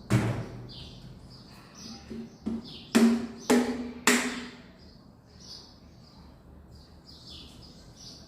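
Clatter of a bowl and its lid being handled and set down: a sharp knock at the start, then four more about half a second apart near the middle, each with a brief ring. Small birds chirp repeatedly in the background.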